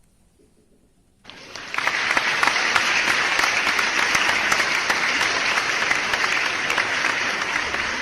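Applause from a crowd clapping, starting abruptly about a second in, after a short near silence, and holding steady.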